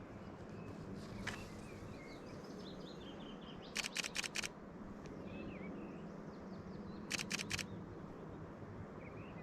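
Fujifilm X-H2 shutter firing in two quick bursts, about five frames and then about four, some three seconds apart, over faint birdsong.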